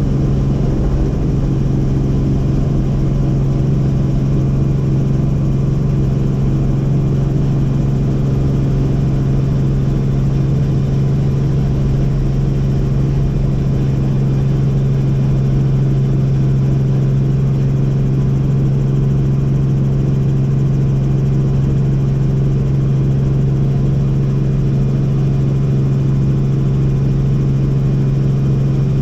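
Helicopter in steady flight: a constant loud drone of engine and rotors, a strong low hum with a stack of higher tones above it, unchanging throughout.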